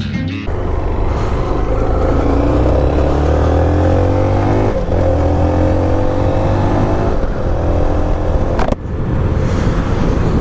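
Honda CB125F's single-cylinder four-stroke engine accelerating, its pitch climbing through two gears with a drop at each change, about five and seven seconds in. A sharp break comes near the end, after which it runs a little quieter.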